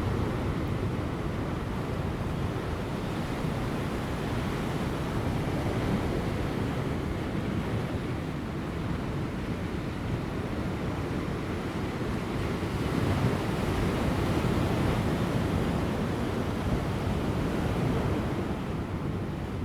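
Large ocean waves breaking on offshore rocks just before high tide: a continuous rush of surf that swells about two-thirds of the way through, with light wind.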